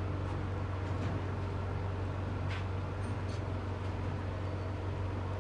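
Steady low hum of a running machine under an even rushing noise, with a couple of faint clicks partway through.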